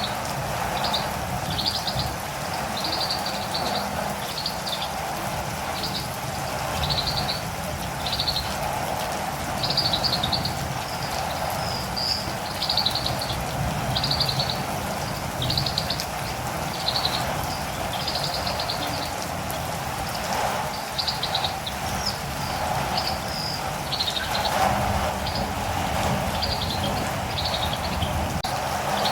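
Catirumbava (olive-green tanager) calling in short, high chirps, repeated about once or twice a second, over a steady patter of rain.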